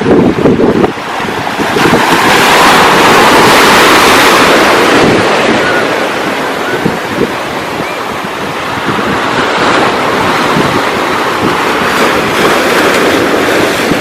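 Ocean surf: a wave breaks and washes up, swelling loudest a few seconds in, then a steady rushing of water. Wind buffets the microphone, strongest in the first second.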